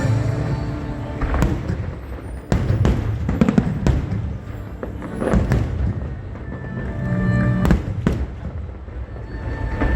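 Fireworks shells bursting, a series of sharp bangs at irregular intervals a second or two apart, over loud music with held tones.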